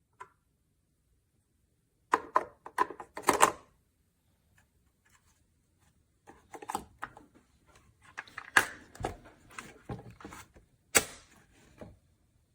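A series of irregular clicks, taps and knocks as a single-serve coffee maker's plastic parts are handled. They come in a short burst around two to three and a half seconds in, then again from about six seconds in until near the end.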